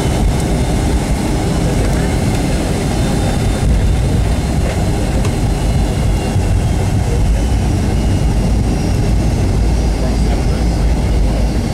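Loud, steady cabin noise inside a Boeing 757-200: engine and airflow rumble, heaviest in the low end, growing a little louder about three and a half seconds in.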